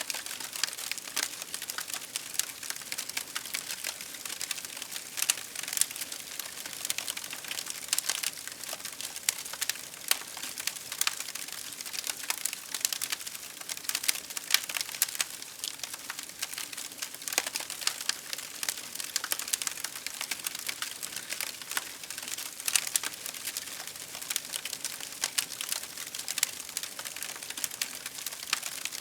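Wood fire crackling steadily, with dense, irregular pops and snaps over a continuous hiss.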